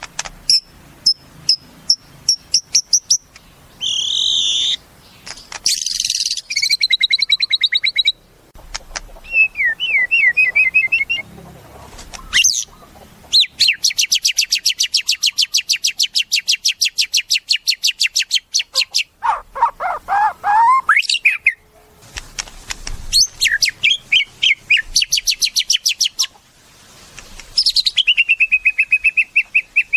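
White-rumped shama (murai batu) singing a long, varied song of whistled phrases and sweeping notes, with a fast run of rapidly repeated chattering notes lasting about five seconds midway and another quick repeated series near the end.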